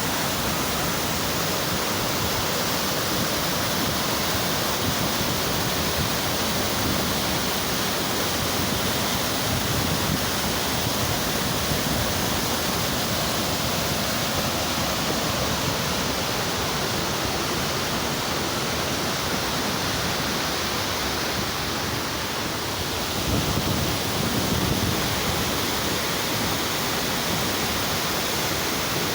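Waterfall pouring steadily: a loud, even rush of falling water, swelling briefly late on.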